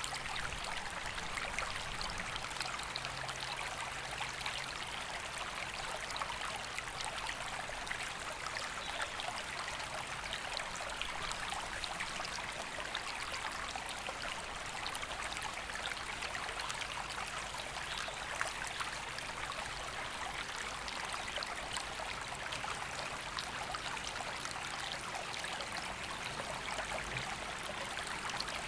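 A river flowing steadily, an even rushing of water without pause.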